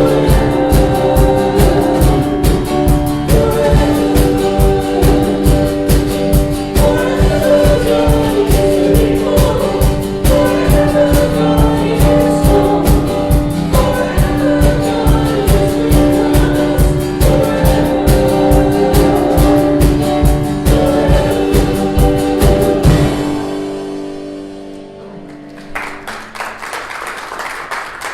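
Worship song with singing, guitar and a steady drum beat; the music ends and dies away about 23 seconds in, and applause follows near the end.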